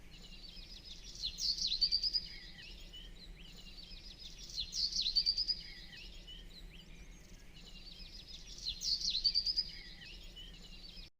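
Bird song: the same short, high phrase sung three times, about every three and a half seconds, each a quick rising note run into a rapid trill, over a faint steady hiss. It cuts off suddenly near the end.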